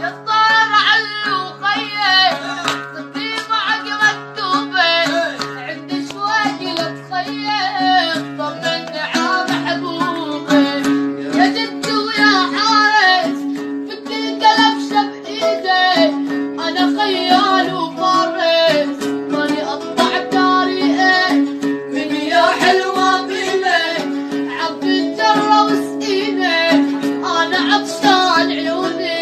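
A man singing a Syrian coastal Arabic folk song in a wavering, ornamented voice, over a plucked string instrument holding steady low notes.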